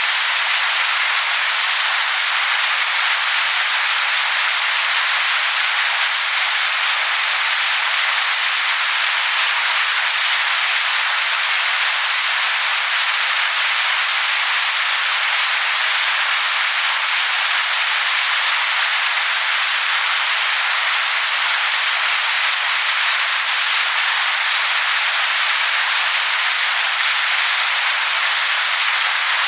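Waterfall splashing onto rocks: a steady, unbroken rush of water with no low rumble.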